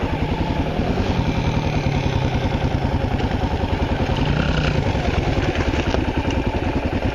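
Honda XR650L's air-cooled single-cylinder engine running steadily, a rapid, even train of firing pulses.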